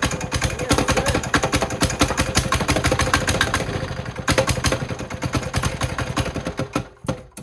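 Small Chinese single-cylinder diesel engine running on its first start, a fast, even knocking beat, then cutting out about seven seconds in.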